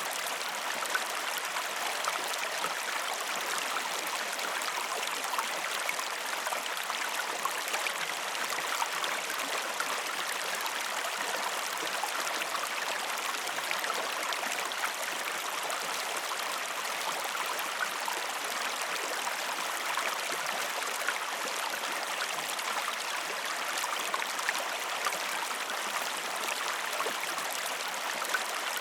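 River or stream water running steadily over stones, a continuous splashing and trickling with no break.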